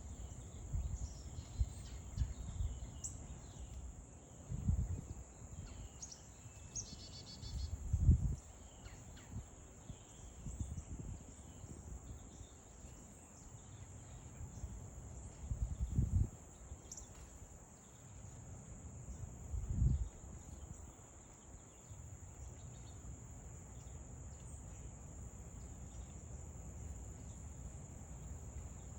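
Insects, likely crickets, trilling in a steady high-pitched drone, with a few faint bird chirps about a quarter of the way in. Four brief low rumbles stand out as the loudest sounds.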